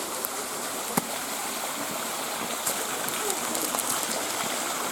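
Small rocky river rushing steadily, with a single sharp click about a second in.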